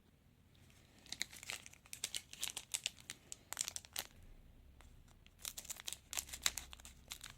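A trading-card packet's wrapper being torn open and crinkled by hand, in two spells of crackling with a short pause between.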